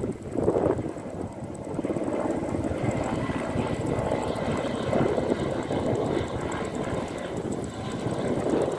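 Aircraft engine drone, steady with slow swells in loudness.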